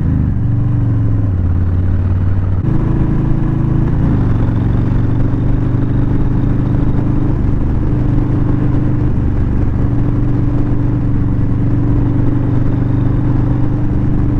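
A motorcycle V-twin engine running under way at steady cruising revs, with wind and road noise. The engine pitch steps down about a second in, jumps up near three seconds, then settles after a brief glide, as the throttle or gear changes.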